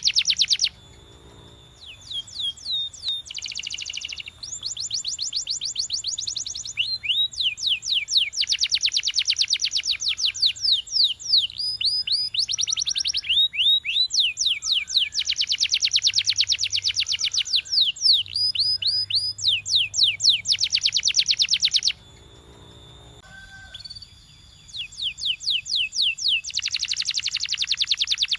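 Canary singing: long, rapid trills of evenly repeated notes broken by short rising whistles, with brief pauses about a second in and again about three-quarters of the way through.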